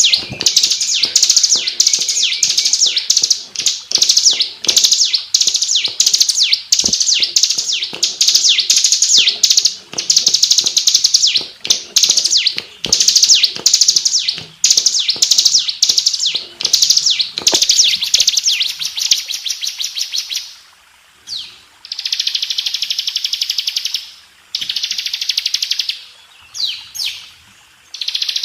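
Bar-winged prinia (ciblek) singing: a loud, fast run of high chattering notes repeated over and over, then, about two-thirds of the way in, a short pause followed by several long buzzing trills, each about two seconds long, with brief gaps between them.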